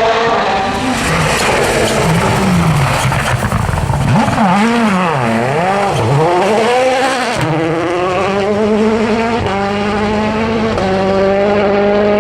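A 2017 World Rally Car's turbocharged four-cylinder engine running hard through a rally stage. Its pitch swings up and down quickly several times about midway, then holds and climbs steadily toward the end.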